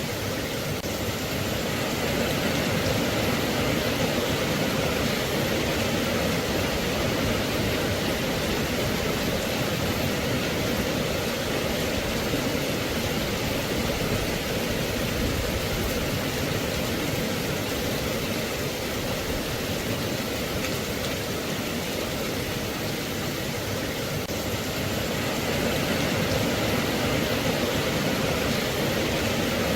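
Steady rain, an even, unbroken rush of noise with no single drops standing out.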